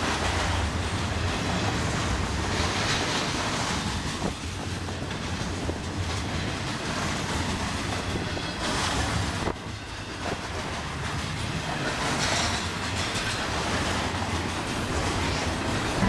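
Double-stack container train's well cars rolling past, their wheels running steadily on the rails.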